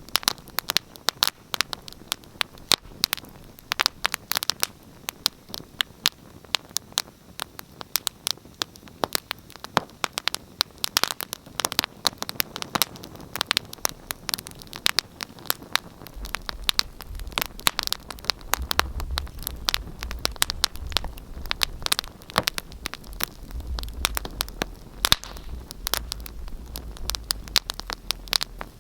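Fire in a fireplace crackling, with frequent sharp pops and snaps over a soft hiss. A low rumble comes in about halfway through.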